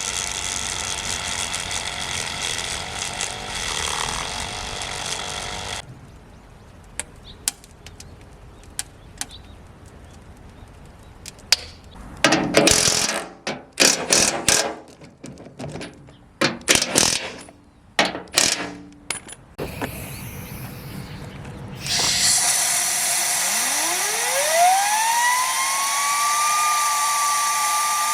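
Workshop tool noise, then scattered knocks and short bursts of clatter. Near the end, a small high-speed motor spins up with a rising whine that levels off into a steady high whine over a rushing noise.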